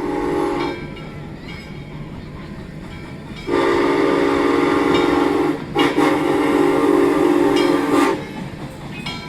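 Locomotive chime whistle sounding a chord of several notes: one blast ends just under a second in, then two long blasts follow from about three and a half seconds in, with a short break between them. A steady train rumble runs underneath.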